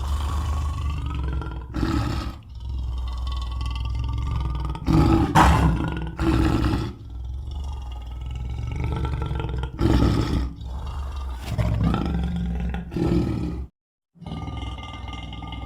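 Sweetums, the Muppets' big hairy monster, growling and roaring in a string of drawn-out monster vocalisations over a steady low rumble. The sound breaks off briefly about 14 seconds in, then the growling resumes.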